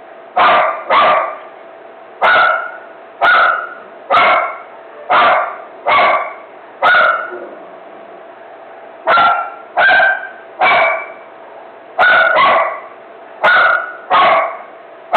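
A dog barking in a frenzy: about sixteen single, sharp barks at roughly one a second, with a pause of about two seconds near the middle.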